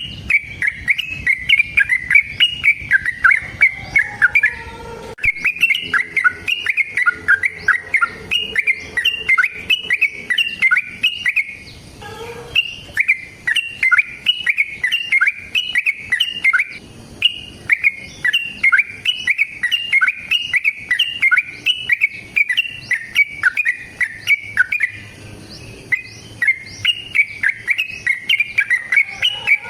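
Yellow-vented bulbul (trucukan) singing long, rapid runs of chirping notes, several runs in a row with brief pauses between them.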